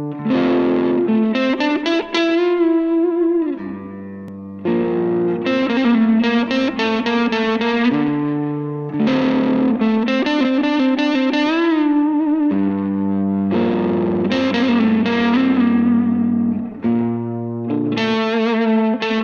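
Instrumental intro of a song: an effects-laden, distorted electric guitar playing sustained chords and melody notes, with a few wavering bent notes about eleven seconds in.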